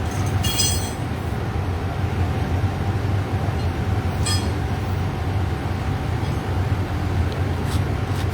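Steady low rumble of an idling vehicle engine, with two short metallic clinks, one about half a second in and another about four seconds in.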